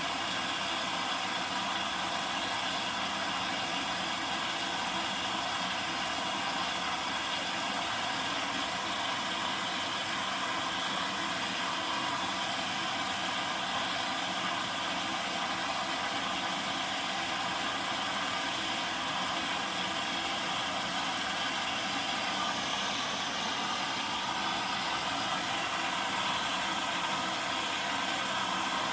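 Zanussi DL22 washing machine running steadily on a 90° boil wash: an even hum and whir with no breaks.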